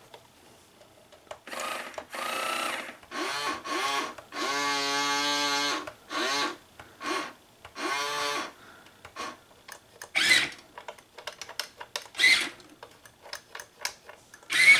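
Small electric motors and gearboxes of a Hobby Engine 1:12 scale RC excavator whining in short stop-start bursts as the boom is lowered, the longest about a second and a half: jerky movement from a radio that gives little fine control. Later come scattered small clicks and a couple of brief rustles.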